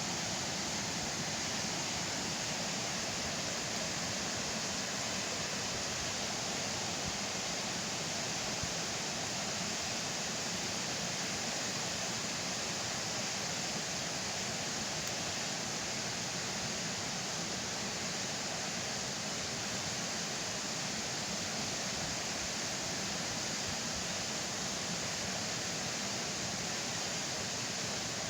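Steady rushing of flowing water, an even hiss with no crackles or breaks.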